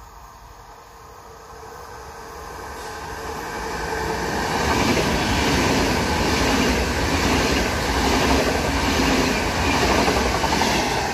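A train approaching and passing close by on the track, growing louder over about four seconds and then holding loud. A regular pulsing of wheel and rail noise comes as the wagons go by.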